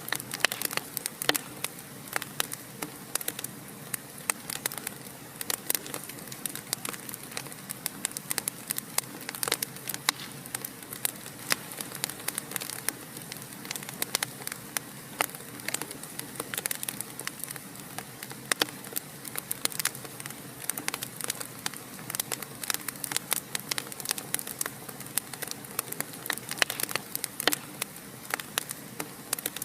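Wood fire crackling and popping in a fireplace: many short irregular snaps over a steady soft hiss of flame.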